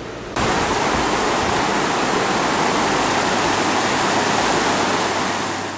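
Steady loud rush of fast-flowing water, like a river or waterfall, cutting in abruptly just after the start and fading out near the end.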